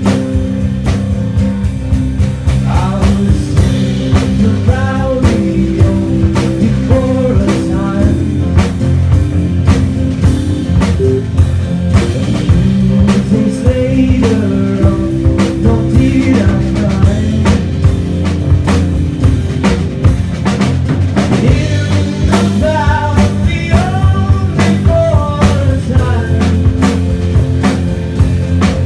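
Live rock band playing a full-band passage: a steady drum kit beat under electric guitar and bass, with a lead line that bends up and down in pitch.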